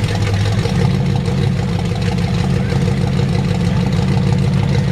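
Mud truck engine running steadily at a loud idle, with the fast, even pulse of its firing.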